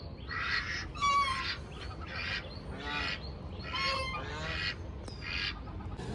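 A bird calling over and over, about eight short calls each under half a second, coming roughly one or two a second.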